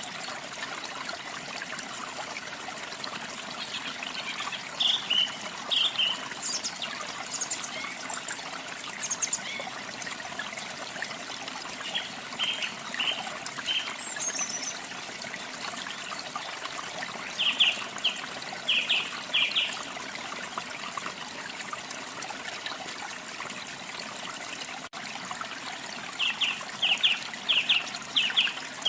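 Steady rush of flowing water, with small birds chirping over it in short runs of quick, sharp notes every few seconds, the strongest runs in the second half.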